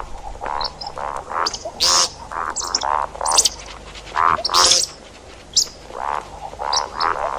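Bird calls of the bird hunters call the shakab ('ground chicken'), used as a hunting lure: a series of short, grating, croak-like notes repeated in groups, mixed with brief high chirps.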